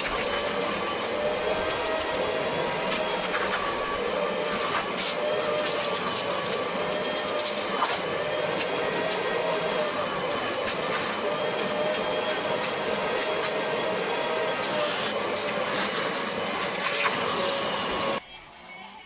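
Vacuum cleaner motor running with a steady whine over a rushing hiss, cutting off suddenly near the end.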